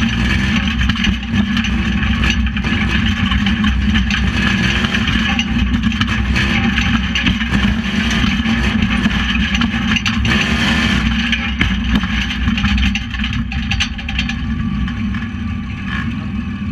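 Tuff truck's engine running hard and revving up and down, heard from inside the cab during a race run; it eases off about three quarters of the way through.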